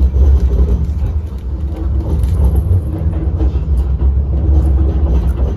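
Tram running between stops, a steady low rumble heard from inside the car.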